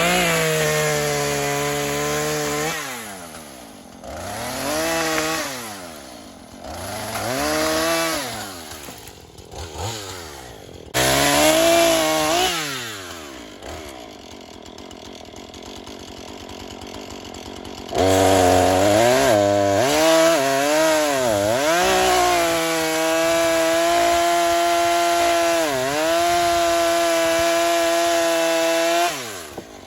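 Two-stroke Husqvarna chainsaw cutting through logs, its engine pitch rising and falling over and over as it revs and dips under load in each cut. The sound breaks off and jumps abruptly several times, and there is a quieter stretch of lower running in the middle.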